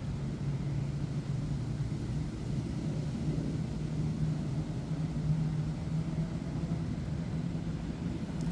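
Steady low mechanical hum with a constant pitch over a rumble.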